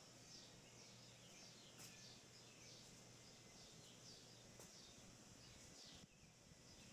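Quiet outdoor ambience with birds chirping faintly in short, repeated falling notes, several a second.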